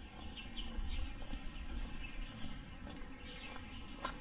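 Small birds chirping in short, repeated downward-sliding calls, over a low rumble, with a sharp click near the end.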